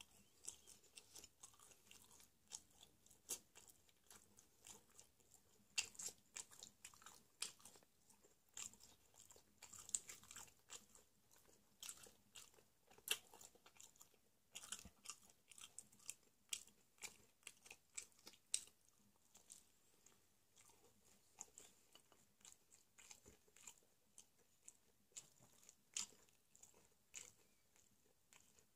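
Chewing and biting crusty square pizza with beef, pepperoni and bacon: an irregular run of crisp crunches, several a second, with short pauses between mouthfuls.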